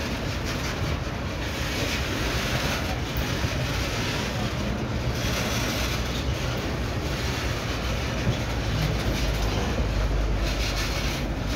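Steel-wheeled bauxite ore wagons of an MRS freight train rolling past on broad-gauge track: a steady rumble and clatter of wheels on rail.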